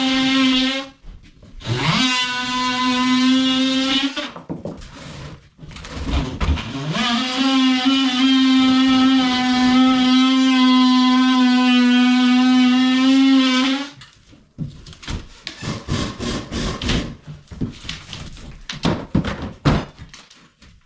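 Electric power tool motor whining at a steady pitch in three runs: one stopping about a second in, one of about two seconds, and one of about seven seconds. The second and third each start with a rising whine as the motor spins up. Irregular knocks and taps follow.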